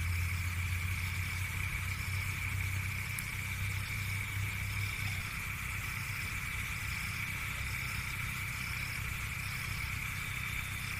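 An engine idling steadily, its low hum dropping away about five seconds in, with a steady high-pitched whine throughout.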